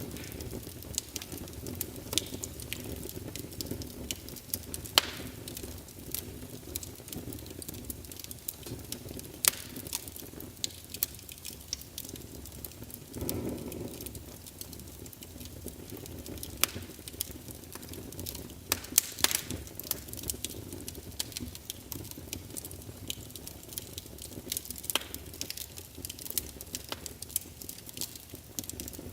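Wood fire in a fireplace burning with a steady low rumble and irregular crackling, broken by sharp louder pops from the burning logs every few seconds.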